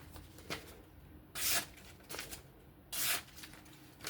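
Knife blade being swiped in short scraping strokes, three of them about a second and a half apart, as the freshly sharpened edge is worked and checked.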